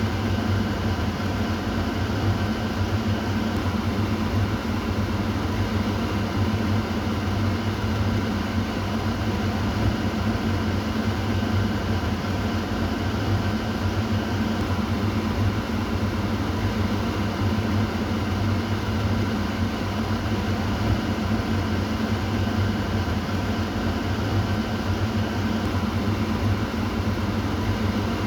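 Kitchen exhaust fan running steadily: a constant rush of air over a low motor hum.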